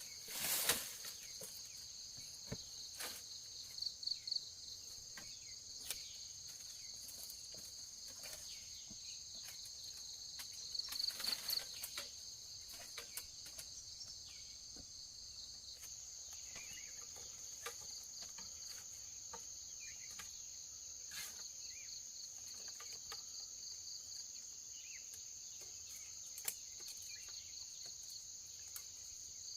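Insects trilling steadily in two high-pitched tones, one of them pulsing. Short rustles and knocks come and go, the loudest near the start and about eleven seconds in.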